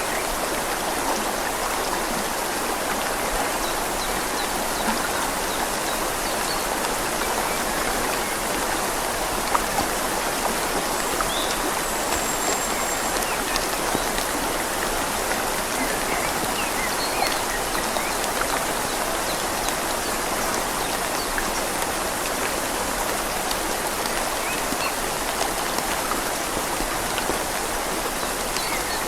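Steady rain falling on leaves together with the even rush of a flowing river.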